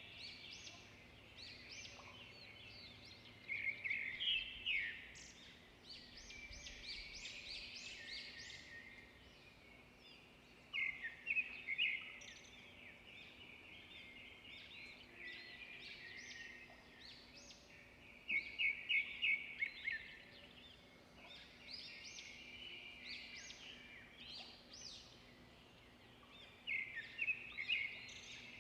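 Several birds chirping and singing together. Louder bursts of quick repeated notes come every seven to nine seconds.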